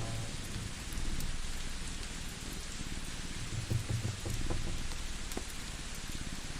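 Layered relaxation ambience: steady rain hiss over a low pulsing rumble, which swells a little before the middle, with scattered faint crackles from a wood fire.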